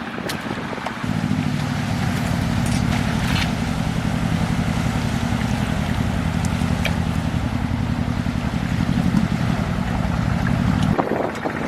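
A low engine running steadily with an even pulse. It comes in about a second in and stops abruptly near the end.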